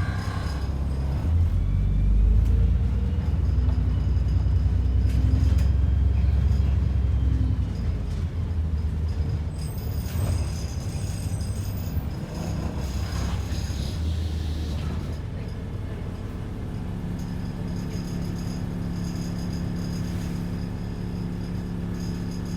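ADL Enviro 400 double-decker bus's diesel engine and drivetrain heard from inside the cabin: a heavy low rumble that grows louder for several seconds, then eases and settles into a steadier, quieter drone.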